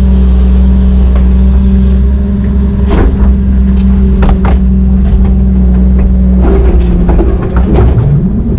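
Heavy diesel engine running steadily, with a series of sharp metallic clanks and knocks from about three seconds in. The engine note rises and falls near the end.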